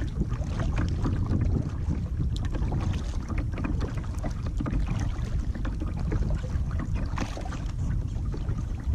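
Wind rumbling on a GoPro microphone from a kayak on open water, with small irregular splashes and drips of water against the hull and paddle.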